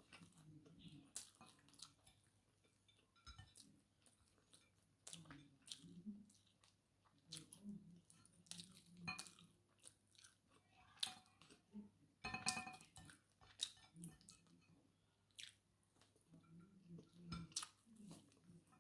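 Faint, close-up chewing of fried fish and rice eaten by hand, with many small mouth clicks and occasional crunchy bites.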